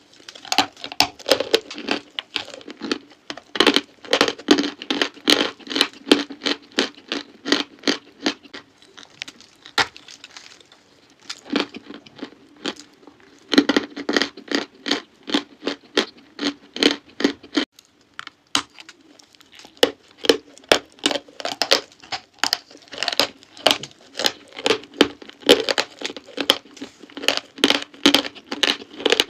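Chalk being crunched close to the microphone: rapid, crisp crunches in runs, with brief pauses about ten and eighteen seconds in.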